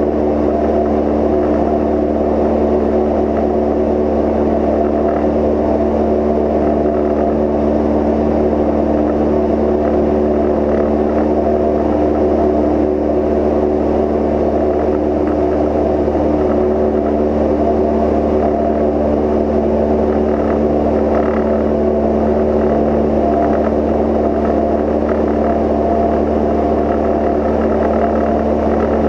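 Cozy Mk IV's pusher engine and propeller droning steadily in cruise, heard inside the cockpit.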